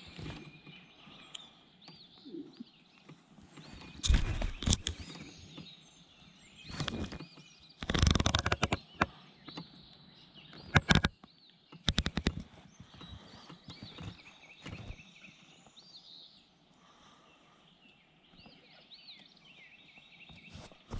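Small birds chirping and singing in the background, broken by a string of loud hollow knocks and bumps, heaviest about four, eight and eleven to twelve seconds in.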